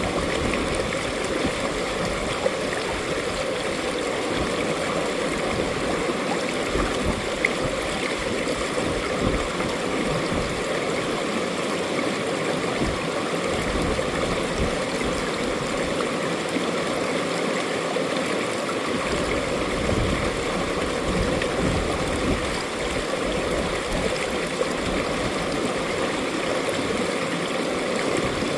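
Mountain valley stream flowing steadily, water rushing and gurgling over rocks.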